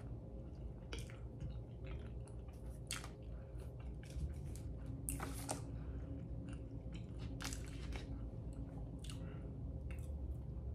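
Close-up chewing and mouth sounds: irregular wet clicks and smacks as a mouthful of breakfast food is eaten.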